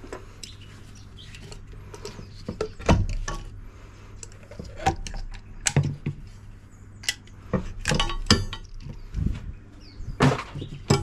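Dishwasher scrap parts being handled and put down: a series of separate knocks, clinks and clatters of metal and plastic, with no set rhythm.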